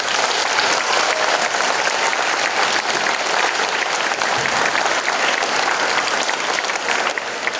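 Large audience applauding, many hands clapping at once, easing off near the end.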